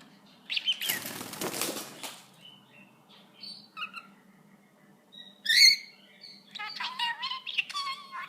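Pet budgie and cockatiel: a bird flaps its wings for about a second, with scattered chirps around it. A single loud sweeping call comes past the middle, and rapid budgie warbling chatter fills the end.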